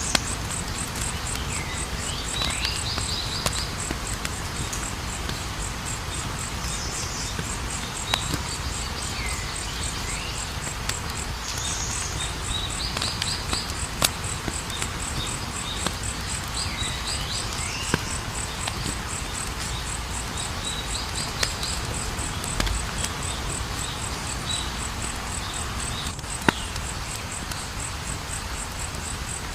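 Campfire burning with a steady hiss and occasional sharp crackles and pops. Under it, insects chirp in a fast, even pulse throughout, with short falling chirps now and then.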